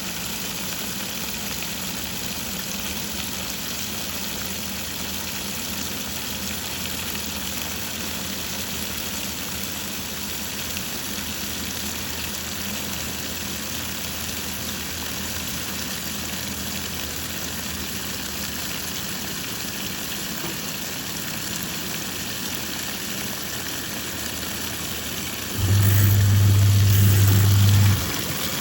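Twin-tub washing machine running: a steady motor hum with water churning. Near the end, a much louder low buzzing hum comes in for about two seconds, then cuts off.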